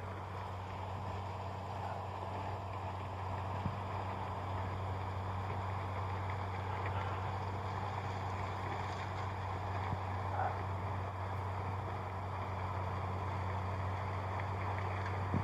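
Steady low hum of a running engine, with a couple of faint ticks and a sharp knock at the very end.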